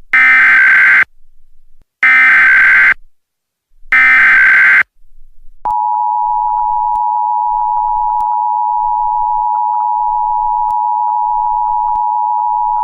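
Emergency Alert System SAME header: three one-second bursts of shrill digital data tones, about a second apart. About six seconds in comes the steady EAS attention signal, a continuous loud beep tone.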